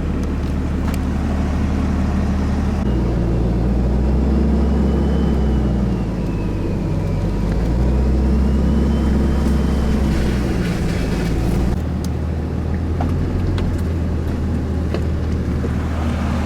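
Car engine and road noise while driving, the engine pitch rising and falling twice as the car speeds up and eases off.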